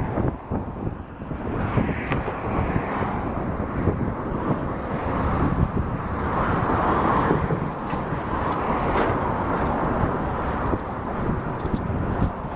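Steady rushing wind and road noise on a microphone carried on a moving bicycle.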